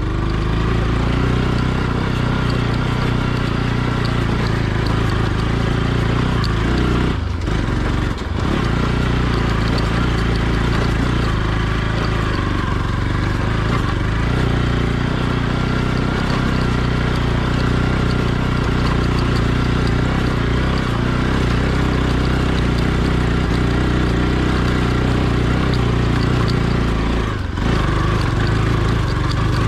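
Motorcycle engine running steadily while being ridden, with a deep, even drone and a few brief dips in level.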